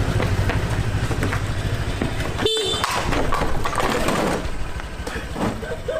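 Loud, noisy vehicle or street sound with a steady low rumble, and one short horn toot about two and a half seconds in.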